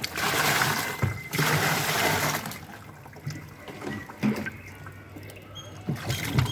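Water being poured into a washing machine, splashing in two spells of about a second each with a short break between, then dying down to a faint trickle with a few light knocks.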